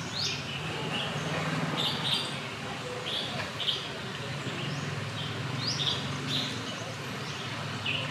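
Small birds chirping: short, high, slightly falling notes, often in pairs, repeating every second or two over a steady low background hum.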